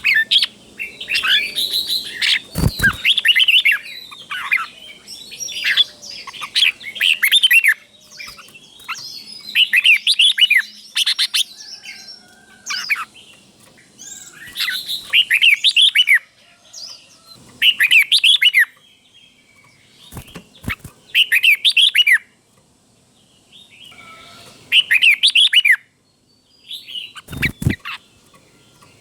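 Red-whiskered bulbul singing its chirpy, warbling song in short phrases every two to four seconds, the phrases doubled in pairs as bulbul keepers prize for teaching young birds. Three sharp knocks sound about 3, 20 and 27 seconds in.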